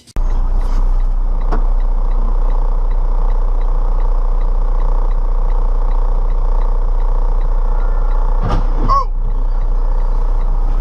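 Steady road and engine rumble of a moving car, with a faint regular ticking and a brief louder sound with a wavering tone about eight and a half seconds in.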